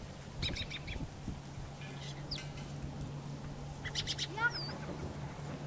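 Bird calls: a few short, quick squawks about half a second in and again near the four-second mark, followed by a quick falling series of chirps, over a steady low hum.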